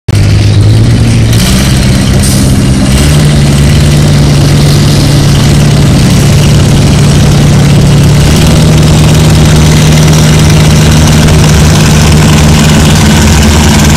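Ford 850 tractor's four-cylinder engine running loud and steady under a pull, its revs stepping up twice in the first three seconds and then holding.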